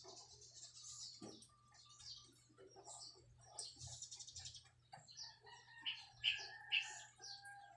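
Faint chirping of small birds, many short high calls. A rooster crows from about five seconds in until the end.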